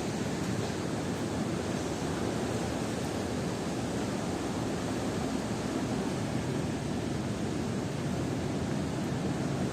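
Steady rush of falling water from a waterfall or water channel, an even roar with no breaks.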